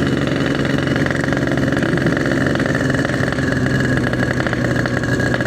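Yamaha RX-King's two-stroke single-cylinder engine running at a steady pitch, a rapid, even exhaust putter with no revving.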